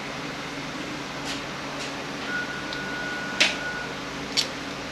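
A few short, light clicks of transmission parts being handled during a teardown, the sharpest about three and a half seconds in, over a steady background hum. A thin steady tone sounds for about a second and a half in the middle.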